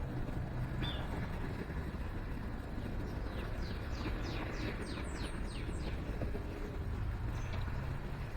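A songbird singing a run of about ten quickly falling whistled notes, three or four a second, after a single short high note about a second in. Under it runs a steady low rumble.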